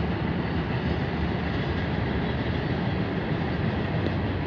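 Freight train cars rolling past on the rails: a steady rumble of wheels and rattling cars, heaviest in the low end.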